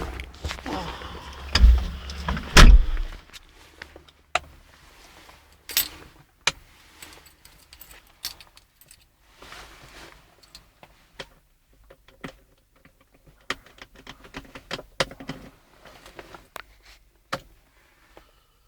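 A John Deere hydrostatic tractor's engine runs loudly for about the first three seconds and then cuts out. The rest is scattered clicks, knocks and light rattles, like keys and handling close to the microphone.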